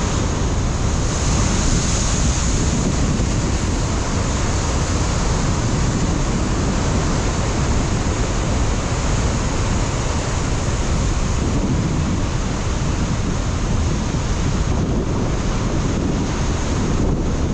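Ocean surf breaking on a rocky shore, a steady rumbling wash of waves, with wind buffeting the microphone.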